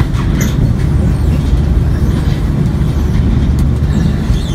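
Steady low rumble of a passenger train carriage, heard from inside an air-conditioned sleeper car, with faint rustles of bedding on top.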